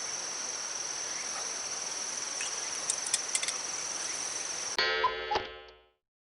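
Outdoor ambience: an even rush of water from a stream under a steady high-pitched drone, with a few light clicks. About three-quarters of the way in it cuts abruptly to a ringing chord that fades out within a second.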